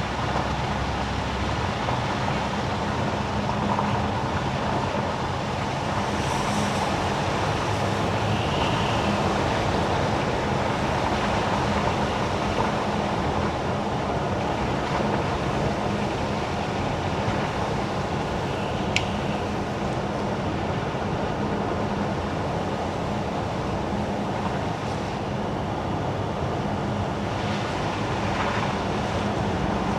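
Car driving on wet winter asphalt: steady tyre and road noise with a low engine hum, and one short sharp click about two-thirds of the way through.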